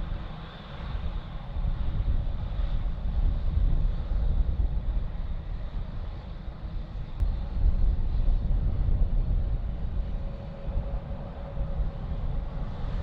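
Low, uneven rumble of jet airliner engines, with a faint steady whine above it.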